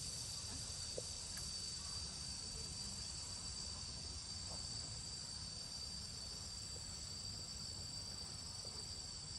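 Steady chorus of insects, a continuous high-pitched trill that holds unchanged, over a low background rumble, with a single faint click about a second in.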